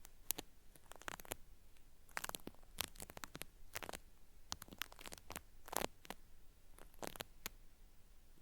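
Cotton swab scraping inside a binaural microphone's ear, giving a crisp, peeling-like crackle in irregular short strokes, about a dozen or more, bunched around the middle.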